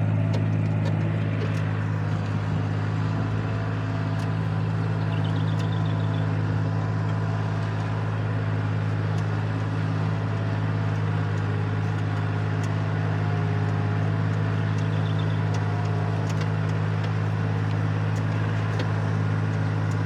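A vehicle engine running at a steady speed: a constant low drone that does not change.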